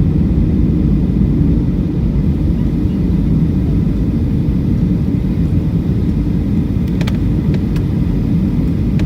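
Steady low rumble of a Boeing 757-200's cabin noise, engines and airflow heard from inside the cabin, with a few faint clicks near the end.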